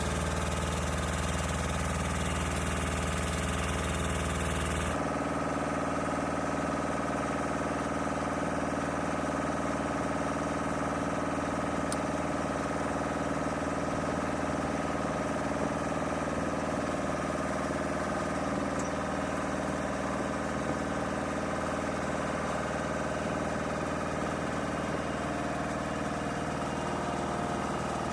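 Engine running steadily with a drone and several steady tones; the sound changes abruptly about five seconds in.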